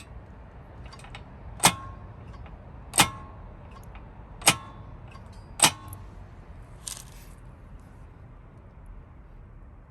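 Four sharp metallic clanks, spaced about a second and a half apart, each ringing briefly, over a faint low rumble. A softer rattle follows about a second after the last clank.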